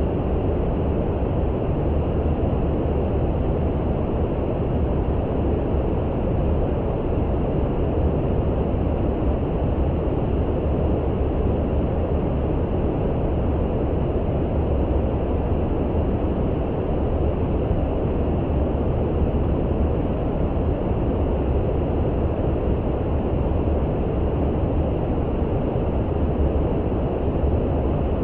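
Steady brown noise: an even, deep rushing hiss with the weight in the low end and nothing high-pitched, unchanging throughout.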